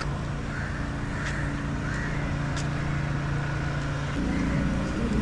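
A motor vehicle engine running steadily amid road traffic noise; its note changes about four seconds in.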